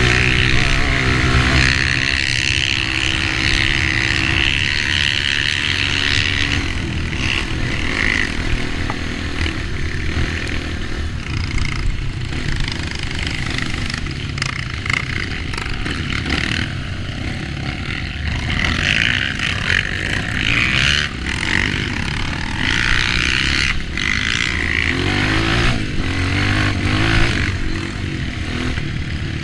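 Dirt bike engine running under changing throttle on a trail, its pitch rising and falling as it revs and eases off. Sharp knocks and rattles come through in the second half.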